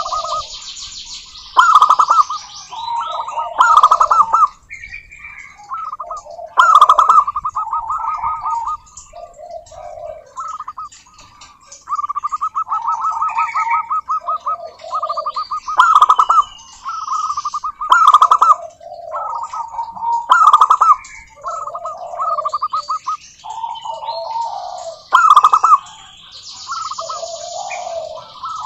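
Zebra doves singing: phrase after phrase of fast, staccato pulsing coos, some with lower closing notes, with loud accented notes every couple of seconds.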